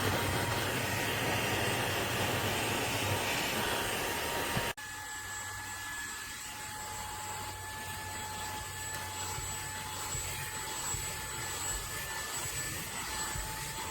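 Cordless handheld vacuum (Fanttik Slim V8 Apex) running with a steady motor whine. About five seconds in the sound cuts off sharply, then resumes a little quieter with a slightly lower whine.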